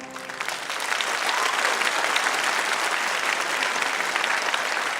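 Audience applauding, the clapping swelling over the first second and then holding steady, dense and sustained.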